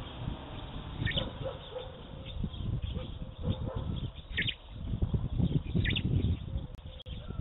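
Small songbirds chirping three times, short high calls about a second in, in the middle, and near the end, over a low, uneven background rumble.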